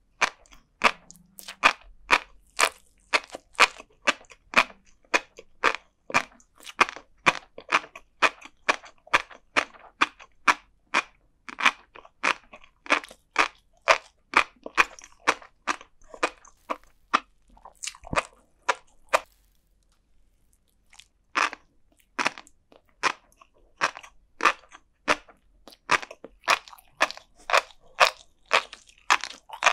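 Close-miked chewing of flying fish roe and sea grapes: a quick run of crisp little pops, a few a second, with a pause of about two seconds two-thirds of the way through.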